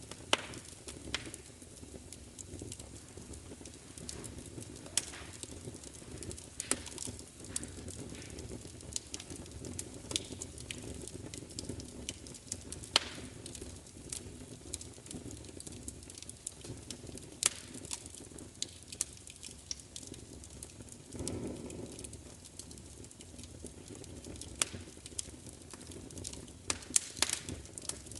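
Fire crackling: irregular sharp pops and snaps over a low, steady rumble of flame, with one softer, duller thump about three quarters of the way through.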